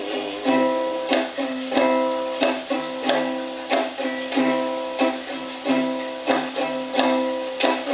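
Instrumental interlude of a slow song played on a plucked-string instrument, with a new note or chord struck about every two-thirds of a second.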